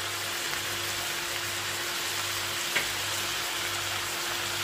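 Chicken liver masala sizzling as it fries on high heat in a pot, with a steady hum underneath and one small click about three seconds in.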